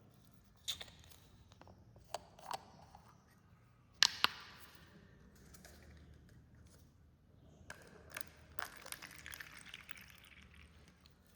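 Carbonated cola fizzing, with scattered clicks and knocks of handling. A sharp double crack about four seconds in is followed by a short fading hiss, and a spell of crackling fizz comes near the end.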